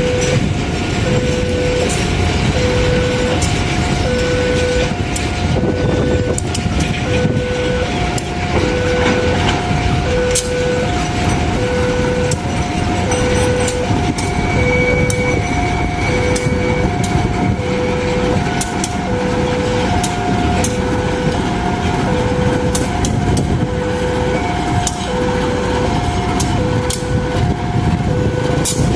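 Railway level-crossing warning alarm sounding steadily, alternating between a lower and a higher tone, while a train rumbles past with its wheels clacking over the rail joints.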